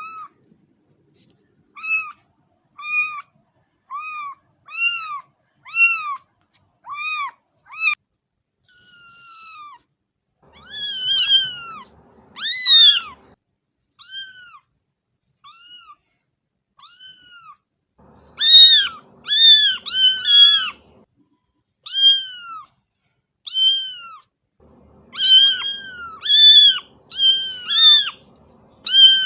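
A cat meowing over and over: short, high-pitched mews of about half a second each, roughly one a second. Quieter in the first several seconds, louder from about eleven seconds in, with calls coming in quick runs in the second half.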